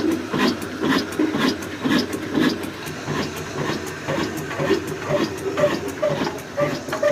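Slow-turning 22 HP diesel engine running with a steady, heavy rhythmic beat, about two strong beats a second. From about four seconds in, a short higher tone comes with each beat.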